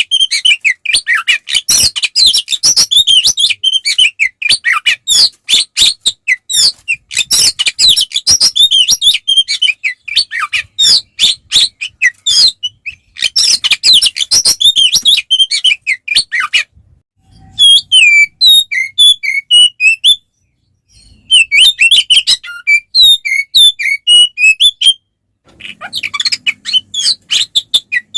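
Oriental magpie-robin (kacer) singing a loud, fast, varied song of rapid whistles and chattering notes: its full-throated aggressive fighting song. The song comes in long runs broken by a few brief pauses in the second half.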